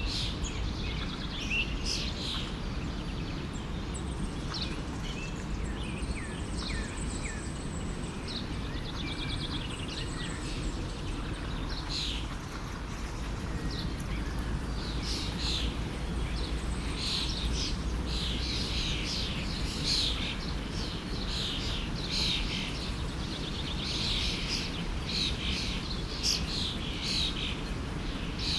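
Several songbirds chirping and singing over the steady rush of a forest stream. The birdsong grows busier about halfway through.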